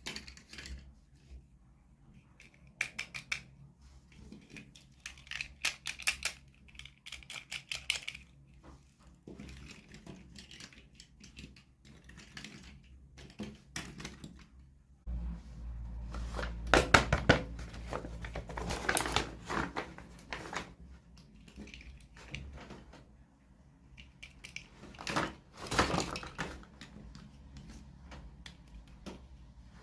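Hands unboxing small plastic toys: a run of sharp clicks, taps and crinkles from plastic packaging and pieces. About halfway through it gets louder for several seconds, with a low rumble under the handling.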